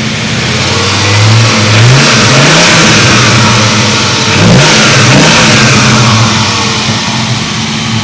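Viper-derived 8.3-litre V10 of a 2004 Dodge Ram SRT-10 blipped from idle in several quick revs, the pitch rising and falling each time, then settling back to a steady idle near the end.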